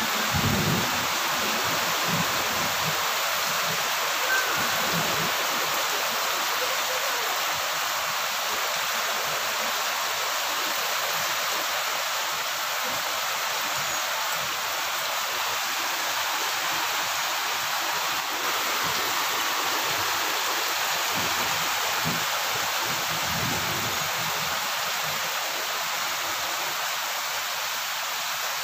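Heavy tropical rain falling steadily on garden foliage. A low rumble from thunder fades over the first few seconds.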